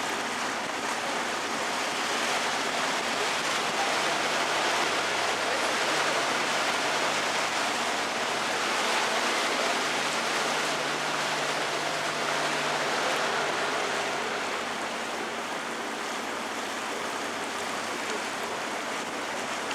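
Steady rushing noise of water and air around an open canal tour boat under way, with a faint low hum from the boat's motor. It swells slightly in the middle, then eases.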